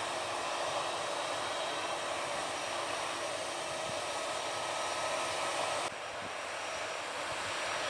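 Airliner turbine engines running with a steady rushing noise and a faint whine. The sound cuts off abruptly about six seconds in, then picks up and grows louder.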